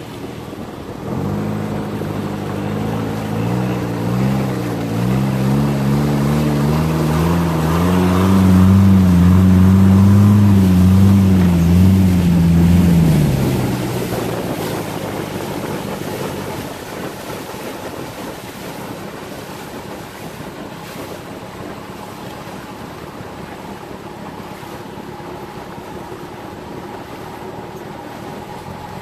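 Motorboat engine running, its pitch wavering up and down as it grows louder, loudest about ten seconds in, then dying away to a steady hum of engine, water and wind.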